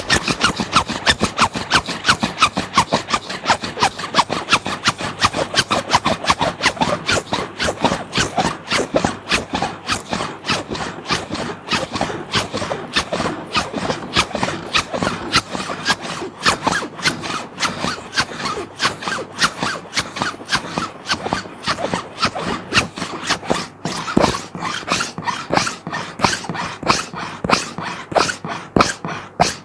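A plastic sheet being scratched in quick, continuous strokes, several a second, the strokes a little more separate in the second half.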